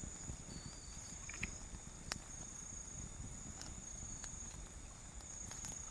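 Night insects in a steady high-pitched drone, with a few faint clicks and taps, one sharper about two seconds in.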